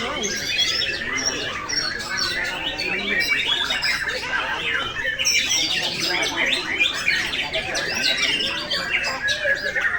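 Several caged white-rumped shamas (murai batu) singing at once: a dense, unbroken tangle of quick overlapping whistles and chirps.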